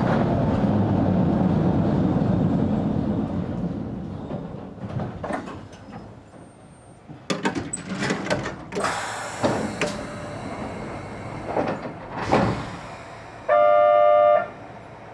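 Sangi Railway Hokusei Line 270-series narrow-gauge electric train running with a steady rumble that dies away as it slows, followed by a series of clicks and knocks. Near the end a loud pitched tone sounds for about a second.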